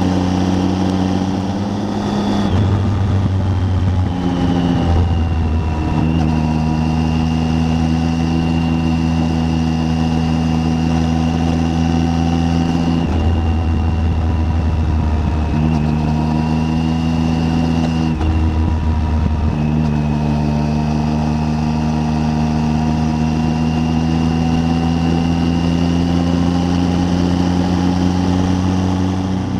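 Triumph Tiger 800 inline-three engine running at road speed, its note steady but stepping in pitch several times, around 2, 4, 13, 15, 18 and 20 seconds in, as the throttle or gear changes.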